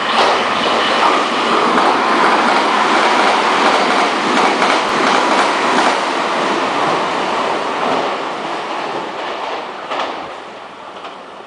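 Meitetsu electric commuter train running through the station at speed without stopping. It makes a loud, steady rumble of wheels on rail with clicks over the rail joints, then fades away in the last few seconds as the train clears the platform.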